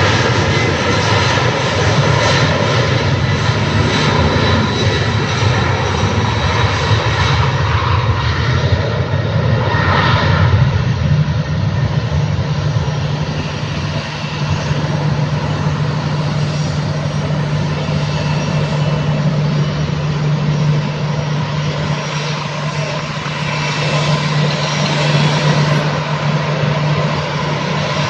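Boeing 767-300ER's twin General Electric CF6 turbofans running at takeoff power: a loud, steady jet noise with fixed whining tones over a low hum.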